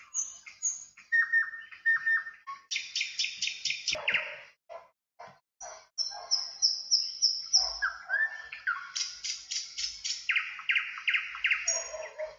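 Songbirds singing and calling: runs of high whistled notes repeated in quick series, some stepping down in pitch, alternating with fast trills.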